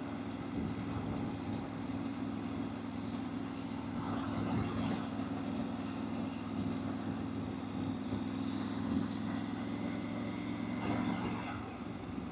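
Motorcycle engine running steadily at cruising speed under wind and road noise, with brief louder rushes about four seconds in and again near the end.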